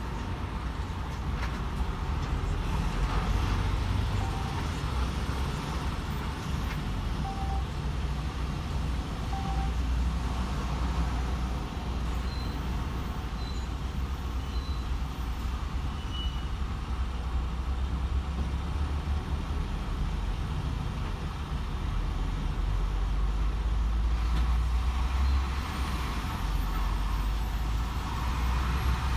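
DAF XF 510 lorry driving along at cruising speed: its diesel engine runs with a steady low drone under continuous road and tyre noise. A few faint short beeps sound in the middle.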